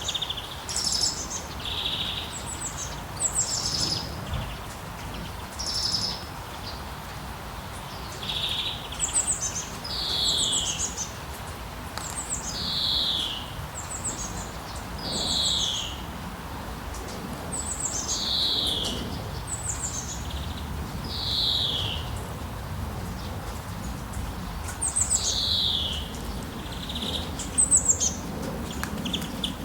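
Birds calling over and over in a forest, each call a short falling whistled note with higher trilled notes, about every two seconds, over a steady hiss of background noise.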